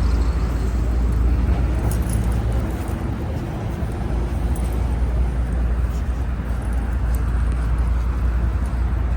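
Steady low rumble of a vehicle's interior while it travels, with a few faint clicks over it.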